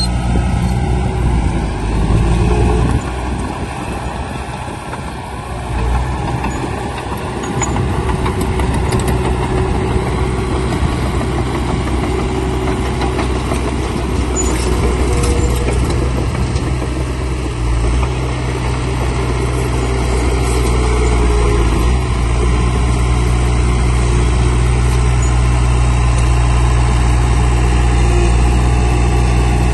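Heavy diesel engine of earthmoving machinery running steadily under load, its note stepping up about two-thirds of the way through and then holding.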